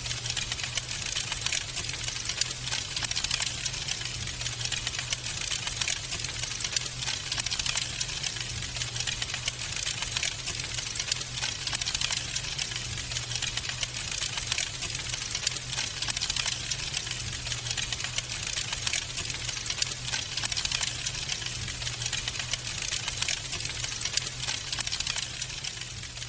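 Wood fire crackling in a fireplace: a dense, irregular run of small pops and snaps over a steady low hum.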